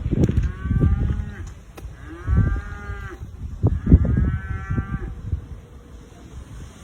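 Cattle mooing: three drawn-out calls of about a second each, rising then falling in pitch, over low gusty rumbling from wind on the microphone.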